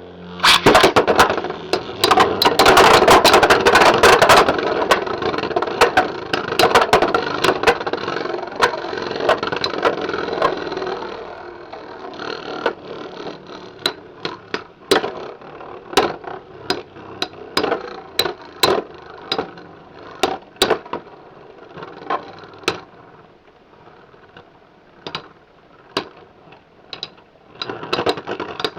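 Spinning Beyblade X tops launched into a plastic stadium: loud, dense whirring and grinding for roughly the first ten seconds, then a quieter spin with many sharp clacks as the tops strike each other and the stadium walls.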